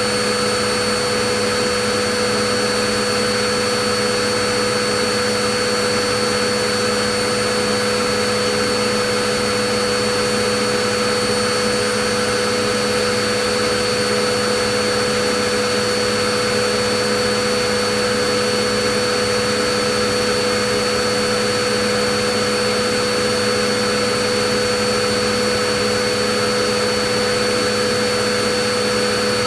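Vacuum cleaner motor running steadily: an unchanging hiss of rushing air with a steady whine over it.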